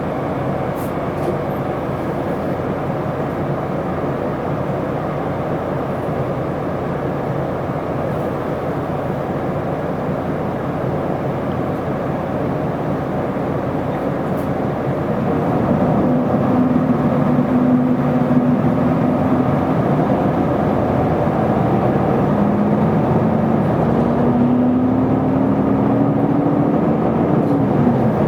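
Isuzu Erga route bus running, heard from inside the cabin: steady engine and road noise, then about halfway through it grows louder as the bus accelerates, the engine note climbing slowly before dropping away at the very end.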